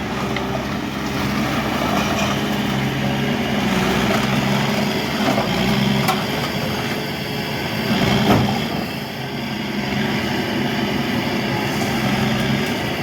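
Engine running steadily, with one brief louder knock about eight seconds in.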